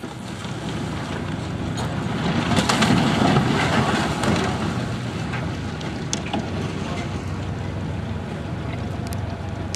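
Boat under way: wind buffeting the microphone over a low engine drone and rushing water, swelling to its loudest about three seconds in.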